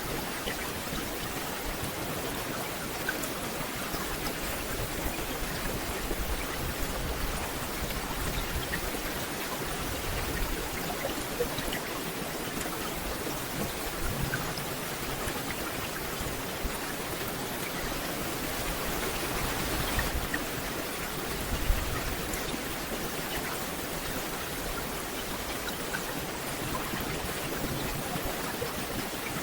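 Steady rain falling on forest foliage, an even hiss with scattered individual drops ticking, one sharper drop hit about two-thirds of the way through.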